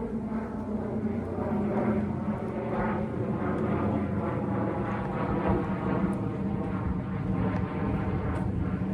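Propeller airplane droning overhead: a steady engine hum with many overtones that holds for the whole stretch.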